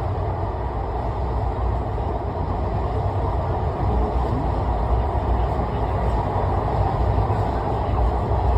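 Steady low rumble of a moving vehicle, level throughout without a pass-by rise or fall.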